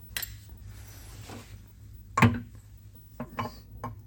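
Metal shaper parts being handled during dismantling: a sharp knock about two seconds in, then a few lighter clicks near the end, over a steady low hum.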